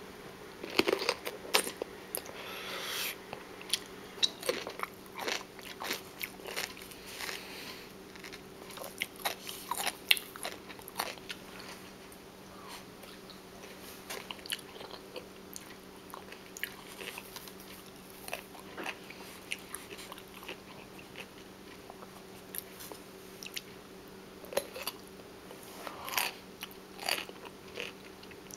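A person biting into and chewing crisp, crunchy food close to the microphone, in irregular crackly crunches, with sharp bites about a second in and again about ten seconds in. A faint steady hum runs underneath.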